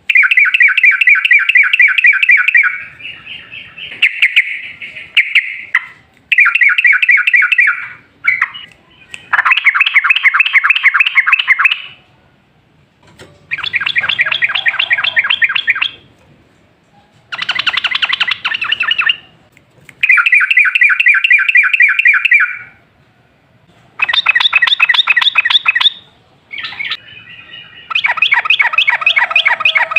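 Yellow-vented bulbul (trucukan) singing loud, fast, rolling phrases of rapid notes. Each phrase lasts two to three seconds, and they repeat about nine times with short pauses between.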